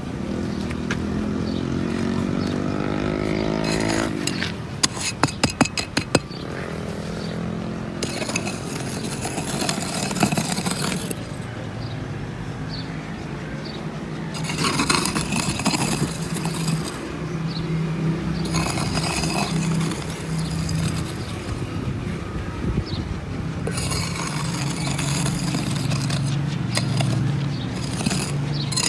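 Small motor of a homemade toy tractor running, whirring with scraping and clicking; its pitch rises over the first few seconds.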